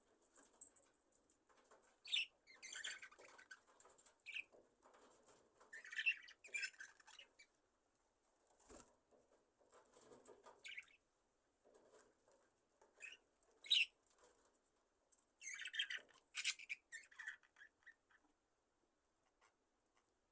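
A budgerigar colony giving soft, scattered chirps and chatter, with brief scratchy rustles of wings and feathers. The sounds fall quiet near the end.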